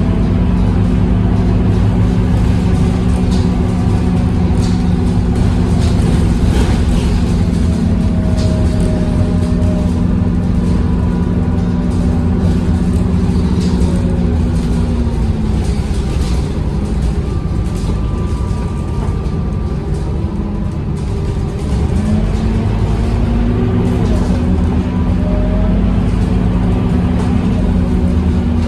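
Scania K230UB city bus running, its five-cylinder diesel drumming steadily with rattles from the body. The engine note falls away about halfway through and picks up again several seconds later.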